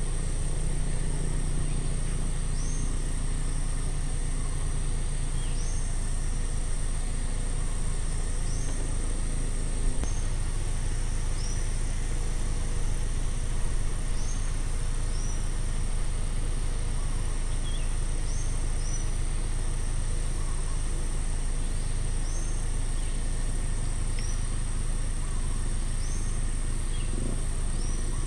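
Outdoor nature ambience: a bird gives a short, high, upward-hooked call about every three seconds, over a steady high insect-like hiss and a constant low rumble.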